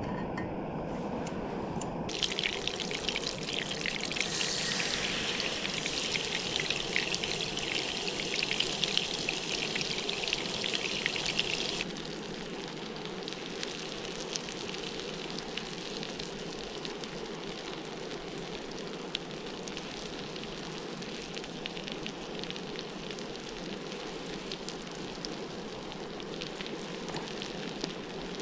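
Food sizzling in a hot frying pan. The sizzle starts suddenly about two seconds in and drops to a quieter, steadier crackle after about twelve seconds.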